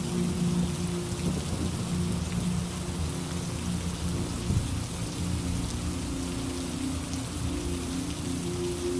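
Steady rain hissing down, with a low rumble of thunder that eases off after the first second or so.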